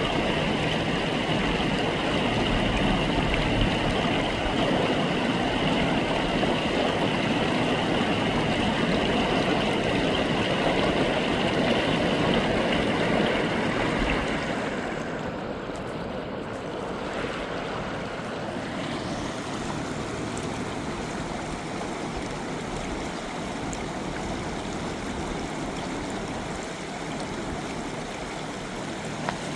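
Rushing river water, a steady noise that becomes quieter about halfway through.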